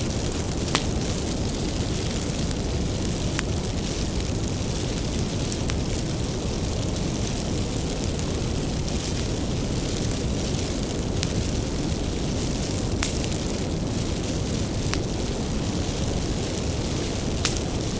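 Wood fire burning: a steady low rush of flame with scattered sharp crackles and pops, the loudest pop near the end.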